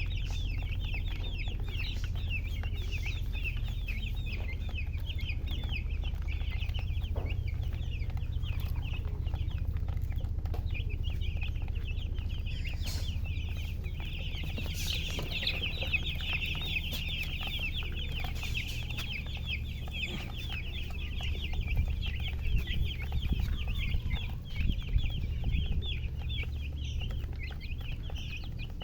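Baby chicks peeping continuously, many short high chirps overlapping, over a steady low hum. A few louder knocks come near the end.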